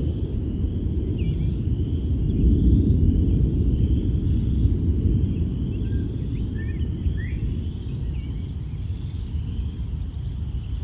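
Wind rumbling on the microphone, with birds chirping and singing.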